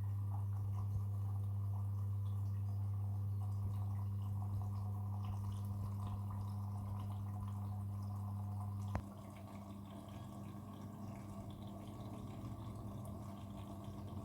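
Front-loading washing machine filling with water, a steady electrical hum over the sound of water running in. About nine seconds in, a click, and the hum drops to a quieter tone while the water keeps running.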